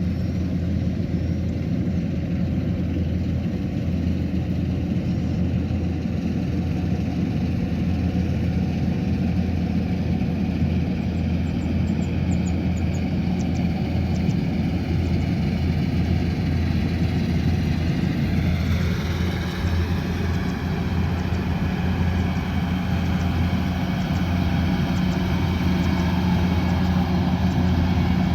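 Kubota combine harvester running steadily with a continuous low engine drone. About two-thirds of the way through, the higher part of its sound sweeps down and then brightens as the machine's note changes.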